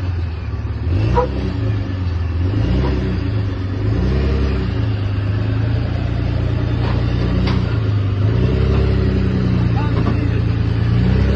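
Car engine revving, its pitch rising and falling in a series of swells.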